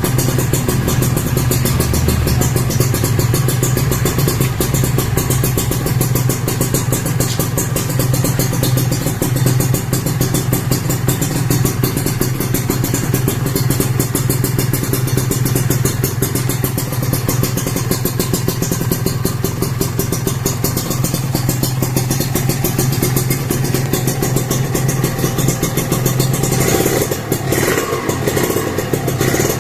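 Kawasaki Ninja RR 150's two-stroke single-cylinder engine running at a steady speed through a DTX51 aluminium silencer and expansion chamber, its exhaust note holding one pitch, with a brief change near the end.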